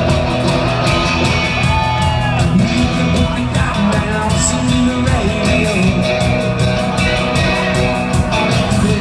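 Live rock band playing loudly and without a break, recorded from the audience at a concert.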